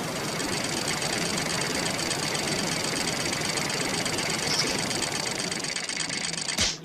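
A steady, noisy rumble that cuts off abruptly shortly before the end.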